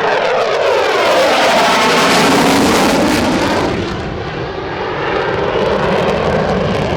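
Twin-engine F-15E Strike Eagle jet fighter passing by: loud rushing jet noise whose pitch falls over the first couple of seconds. It is loudest about two to three seconds in, eases about four seconds in, then builds again.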